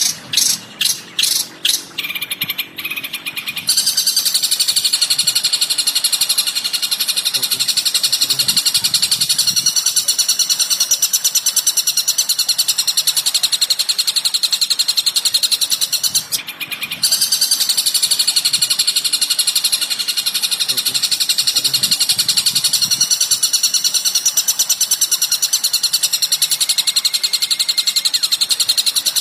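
Bird calls from a song-training (masteran) recording: a few loud, evenly spaced call notes at the start, then a dense, rapid, high-pitched chattering trill that runs on, with one short break about sixteen seconds in.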